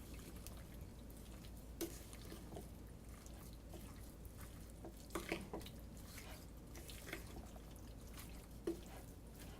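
Faint, sparse wet squelches and clicks of raw chicken pieces being mixed with a moist spice and lemon-juice marinade in a bowl.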